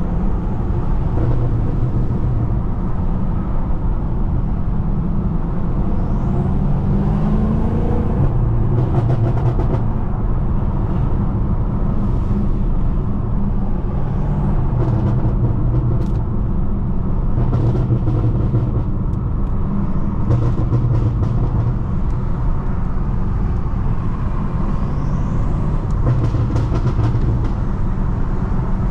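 Inside the cabin of a Stage 2-tuned BMW M5 F90, its twin-turbo V8 running under way with tyre noise from the wet road, a steady low drone whose pitch climbs briefly as the car accelerates about seven seconds in.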